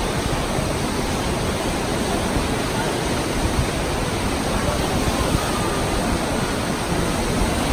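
Steady rushing noise aboard a moving train, with wind buffeting the microphone in uneven low gusts.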